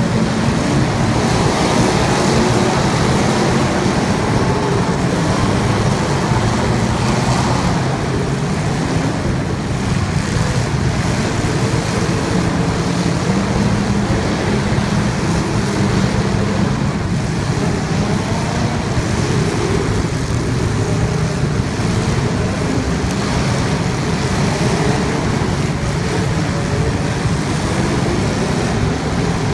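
Racing engines running hard and continuously, their pitch rising and falling as they rev through the laps.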